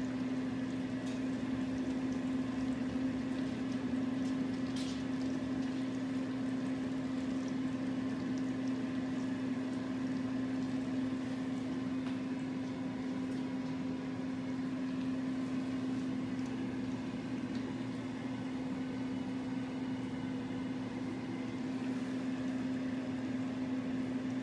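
Philips 3200 LatteGo automatic espresso machine's pump running steadily with liquid flowing and gurgling: a constant low hum throughout.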